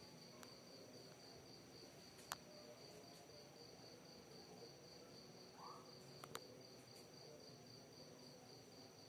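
Faint insect trilling: a steady, rapidly pulsing high-pitched tone. Two sharp clicks stand out, one about two seconds in and one about six seconds in.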